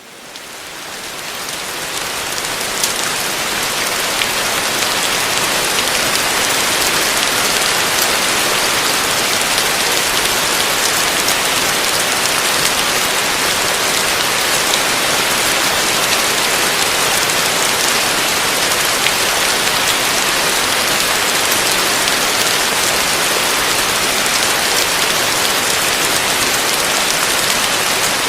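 Heavy rain falling steadily, fading in over the first couple of seconds, with the odd sharper drop tick standing out from the dense patter.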